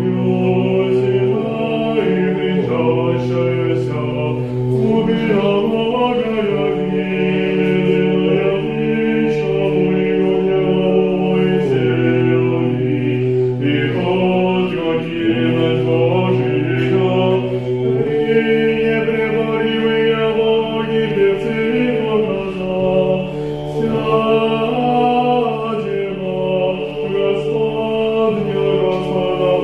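Orthodox church choir singing liturgical chant a cappella, several voices holding long notes over a low sustained bass note that shifts every few seconds.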